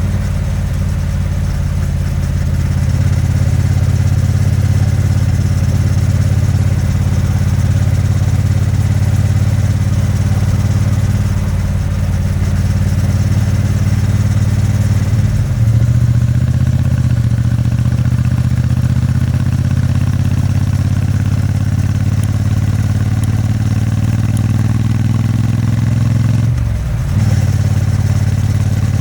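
Triumph Bonneville T100 parallel-twin engine and exhaust while riding, a steady low exhaust note. The engine sound briefly dips twice, about halfway through and near the end.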